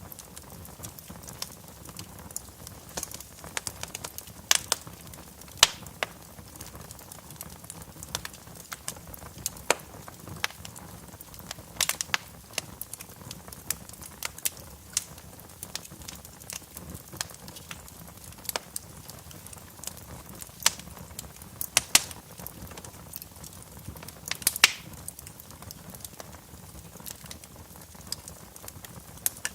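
Wood fire crackling in a fireplace, with irregular sharp pops and snaps over a low steady hiss; a few louder pops stand out about 5, 12, 21 and 25 seconds in.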